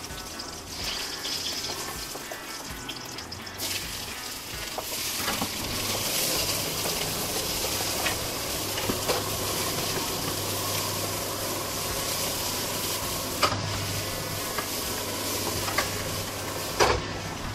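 Sliced onions and green chillies sizzling in hot oil in a wok, stirred with a metal spatula. The sizzle gets louder about four seconds in, and the spatula knocks sharply against the pan a couple of times near the end.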